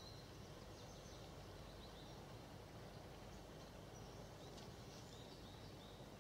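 Near silence in a forest: a faint steady low background hiss with small birds giving short, faint high chirps every second or so.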